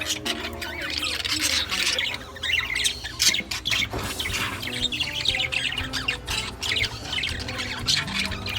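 A flock of budgerigars chattering and squawking, many short calls overlapping without a break.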